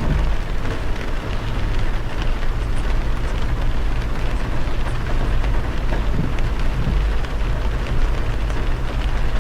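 Heavy rain pelting a moving car, with scattered drop ticks over a steady low rumble of tyres on the wet motorway.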